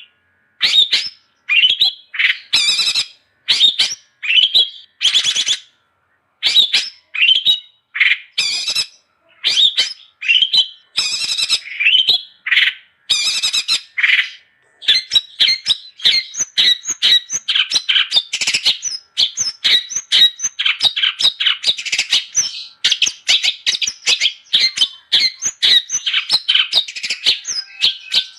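Long-tailed shrike (cendet) singing. It starts with separate short phrases about half a second long, with brief pauses between them. About halfway through, the song turns into a fast, almost unbroken run of short notes.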